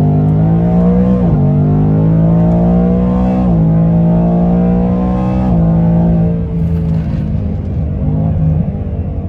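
2019 Mustang GT's 5.0-litre V8, on an E85 tune, accelerating at wide open throttle: the pitch climbs in each gear and drops sharply at three upshifts, then the engine eases off about six seconds in.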